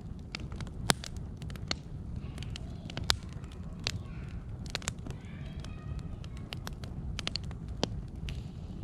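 Fire crackling, with irregular sharp pops and snaps, several a second at times, over a steady low rumble.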